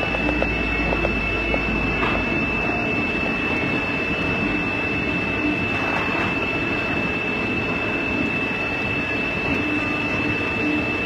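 Haas ST-20SSY CNC lathe running through a machining cycle: steady machine noise with a constant high-pitched whine, and a low rumble that drops away about two seconds in.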